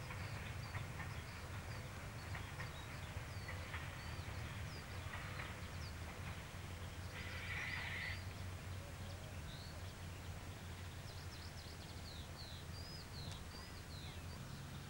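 Birds chirping over a low steady rumble, the chirps growing more frequent in the last few seconds. A brief, higher, denser sound comes about seven seconds in.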